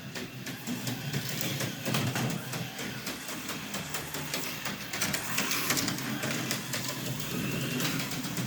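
HO-scale Jaguar slot car running laps on a plastic track: the small electric motor whirs with a fast clicking rattle of the car over the track, swelling and fading as it comes around.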